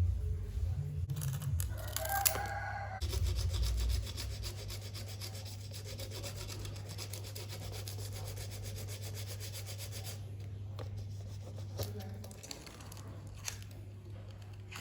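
Fast, even rubbing strokes, such as abrading the plastic propeller blank, running for about seven seconds from about three seconds in and then stopping. A steady low hum lies underneath.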